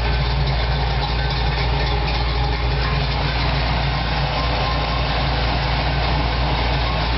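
Fuel-injected Chevy 350 V8 with a ProComp thumper cam, in a lifted Jeep YJ Wrangler, idling steadily.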